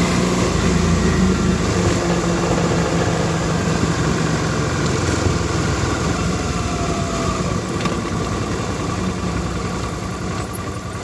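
Suzuki V-Strom DL650's V-twin engine running steadily, easing slightly quieter toward the end.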